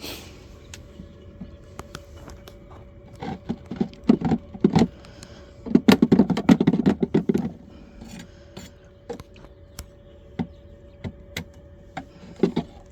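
Wooden beehive frames and boxes being handled: scattered clicks and knocks, with two busier stretches of rattling and scraping, the longer one about six seconds in.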